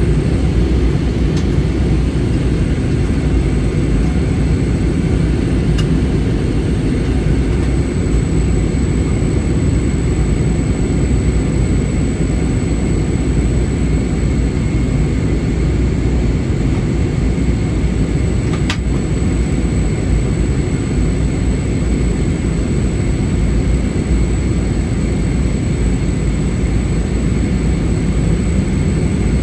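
Airbus A320 cabin noise heard from a window seat: a steady roar of engines and airflow with a thin, constant high whine over it. Two faint clicks come through, about six seconds in and again past the middle.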